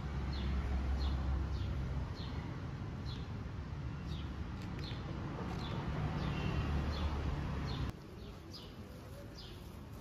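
A small bird calling with short downward chirps, repeated about every half second, over a low rumble that drops away about eight seconds in.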